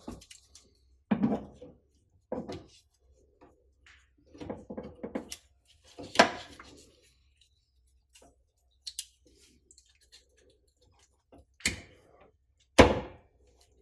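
Intermittent knocks and clatters of hand tools and car parts being handled during disassembly, with a sharp knock about six seconds in and two more near the end.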